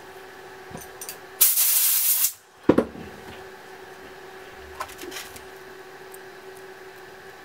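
A loud spraying hiss lasting about a second, cut off sharply and followed by a sharp knock, over a steady electrical hum with a few light clicks.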